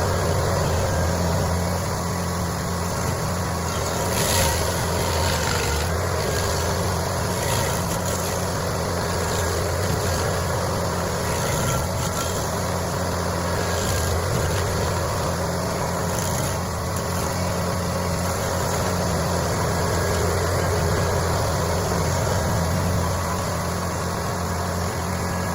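Engine of a heavy machine running steadily, with a few faint knocks along the way.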